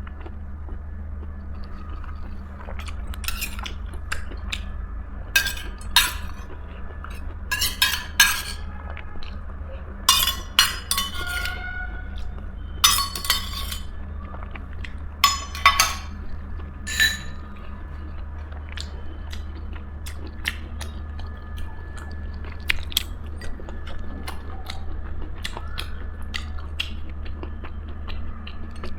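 Dishes and cutlery clinking while someone eats: a run of sharp clinks, some briefly ringing, in the first half, then only scattered light clicks. A steady low hum sits under it throughout.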